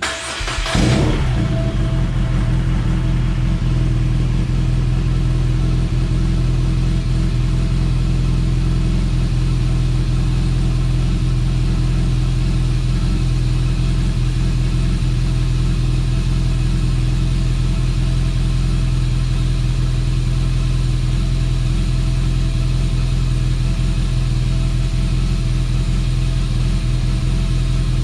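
BMW R nineT's boxer twin engine starting, a short burst right at the beginning, then idling steadily and evenly, run up after a fresh oil change.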